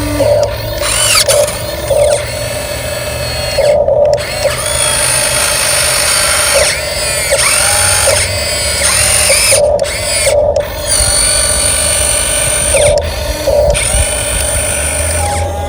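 Electric motor and gearbox of an RC dump truck whining as it drives, the whine rising and falling in pitch as the throttle changes, with brief pauses.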